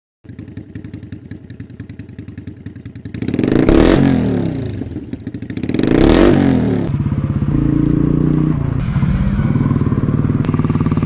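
Motorcycle engine running with a rapid, even beat, revved up twice about a third and halfway in, then running steadily.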